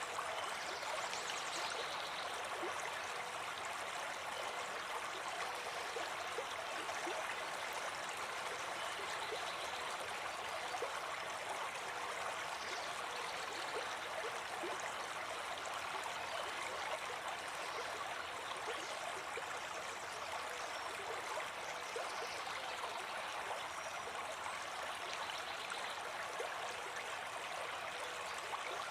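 River water flowing steadily over stones, an even rushing with fine splashing and gurgling.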